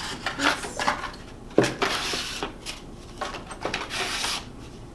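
Handling noise from unboxing a boxed item: light clicks and taps, a sharp knock about a second and a half in, and two spells of rustling packaging.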